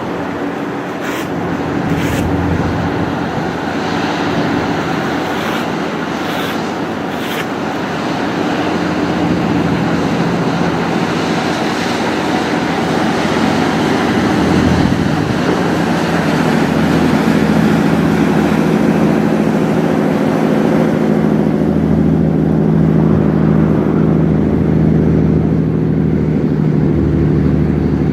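Jet engines of a Boeing 767-381 airliner running, a steady rushing noise with a low drone that swells and grows louder about halfway through.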